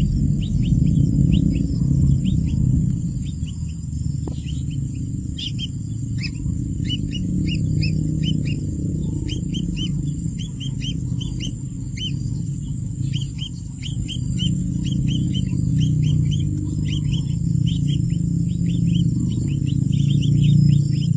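Small birds chirping, many short, quick chirps repeating throughout, over a loud, steady low rumble and a thin, constant high-pitched tone.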